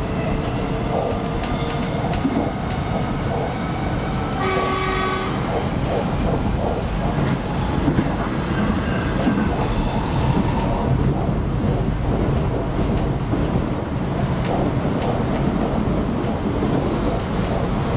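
Onboard running noise of an X'trapolis 100 electric train at speed: a steady rumble with scattered wheel clicks over the rails. A short horn blast comes about four seconds in.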